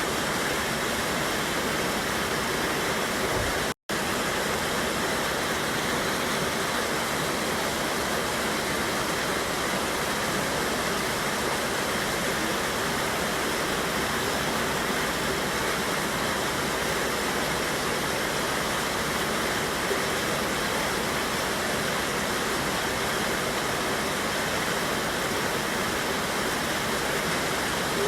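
A mountain river rushing over a small waterfall: a steady, even rush of water. The sound drops out completely for an instant about four seconds in.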